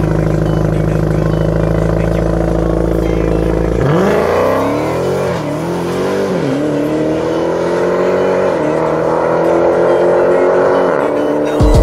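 Dodge Demon's supercharged 6.2-litre Hemi V8 held at steady high revs on the transbrake at the start line. About four seconds in it launches and pulls hard down the drag strip, the pitch climbing through the gears with three upshifts.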